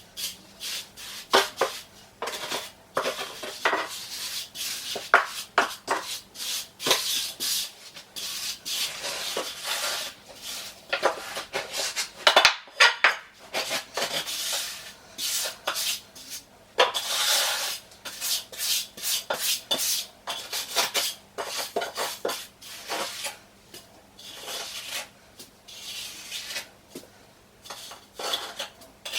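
A tool scraping and rubbing across wet shower-pan mortar as it is levelled and packed down: an irregular run of rasping strokes, each a fraction of a second to about a second long, with sharp scrapes among them and a short pause about two-thirds of the way through.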